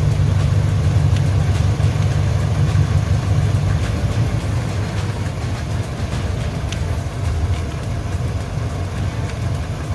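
Toyota Innova Reborn's engine idling steadily.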